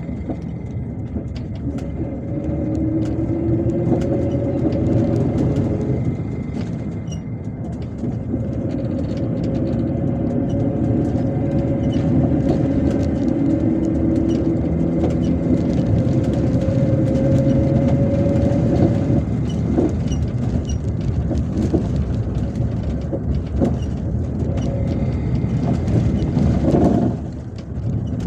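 MAZ-257 bus under way, heard from the passenger cabin: engine and drivetrain running with road rumble, their tone climbing as the bus accelerates and falling back a few times, likely at gear changes or when the driver lifts off. A faint steady high whine runs underneath.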